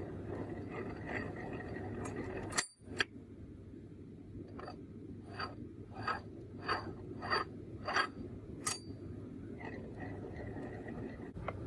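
Light metallic clinks: a sharp click, then a steady run of about six short clinks, each ringing briefly, roughly one and a half a second, with one more after a short gap. A steady low hum runs underneath.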